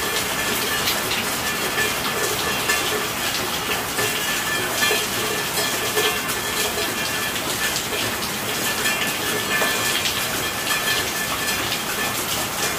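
Steady rainfall, a dense hiss with many separate drops ticking through it.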